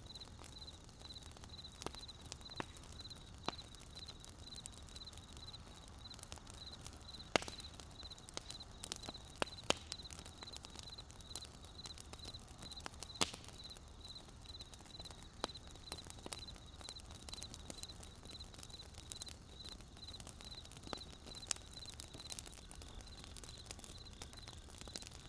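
Wood fire crackling with scattered sharp pops, two louder ones about 7 and 13 seconds in, over a faint low rumble and a steady, evenly pulsing high-pitched chirp.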